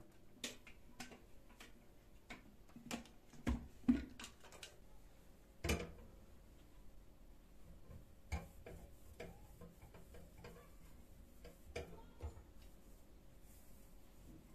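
Irregular light clicks and taps, with louder knocks about three and a half, four and six seconds in.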